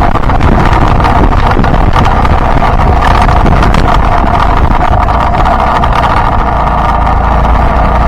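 Yamaha Byson single-cylinder four-stroke motorcycle engine running steadily while riding, with a low rumble of road and wind noise.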